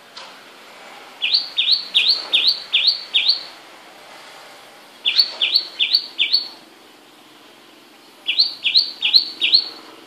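A bird calling in three runs of four to six quick, rising chirps, about three chirps a second, with pauses of about a second and a half between runs.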